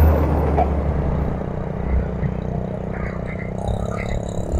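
KA BIAS airport train, a green-and-white multiple unit, running away from a level crossing. Its low hum and wheel rumble fade over the first second or two as it recedes.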